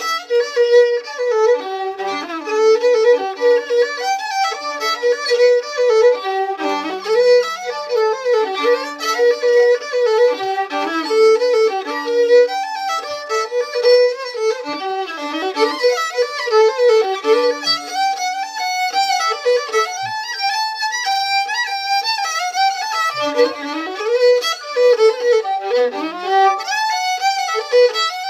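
Fiddle playing a quick melody, with a lower note held under the tune at times.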